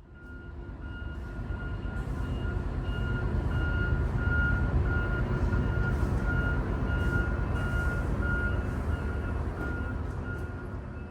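A vehicle's reversing alarm beeping about twice a second over the steady low rumble of its engine. The sound fades in and fades back out.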